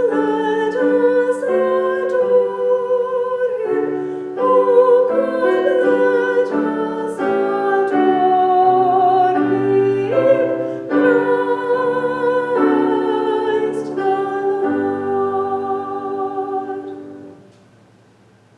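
Solo voice singing a hymn with wide vibrato, accompanied by piano chords, ending on a long held note that fades out near the end.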